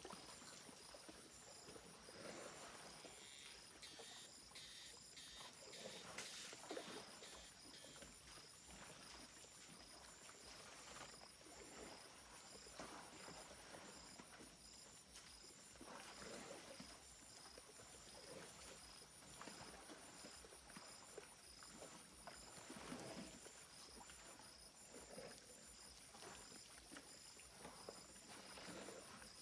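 Faint insect chorus: a steady, evenly pulsing high buzz at several pitches, with soft scattered low noises underneath.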